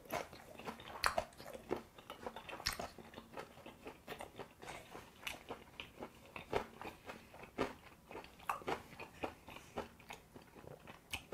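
Close-miked chewing of a mouthful of raw sliced beef wrapped in aged kimchi, with irregular crunches and wet mouth clicks.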